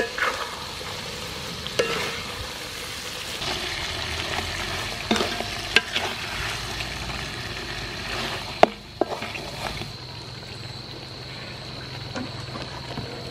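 Mantis shrimp and sauce sizzling in a metal wok as they are stirred with a wooden spatula. A few sharp knocks and scrapes of the spatula on the pan come through, the loudest about two-thirds of the way in, and the stirring eases off near the end while the sizzle goes on.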